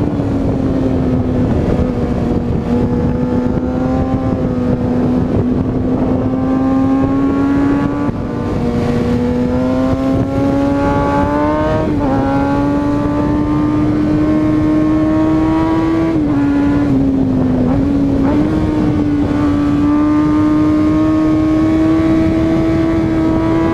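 2020 Kawasaki Ninja ZX-6R's inline-four engine running at high revs while riding, with a high, steady engine note that slowly climbs and dips a few times with the throttle. Wind rushes past the bike-mounted camera throughout.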